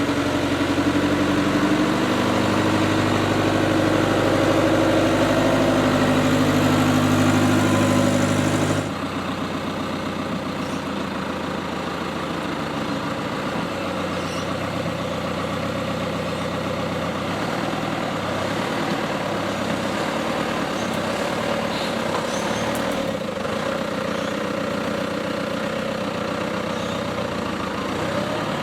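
Engine running steadily. About nine seconds in, the sound cuts abruptly to a different, quieter steady engine.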